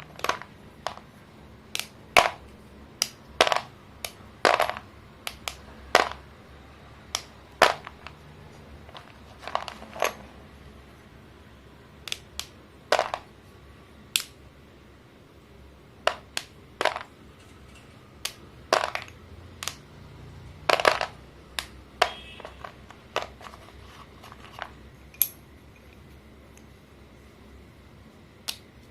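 Sticks of pink and purple chalk being snapped and crumbled, giving sharp crunchy cracks at an irregular pace of about one or two a second, with short pauses between.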